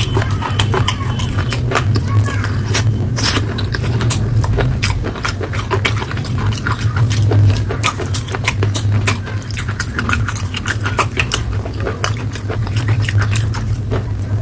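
Close-miked chewing of slate pencil, dense with irregular sharp crunches and clicks, over a steady low hum.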